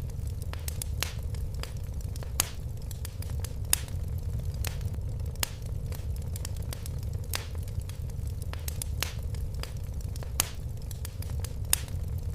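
Fire in a fireplace crackling, with irregular sharp pops, a few of them louder, over a low steady rumble of the flames.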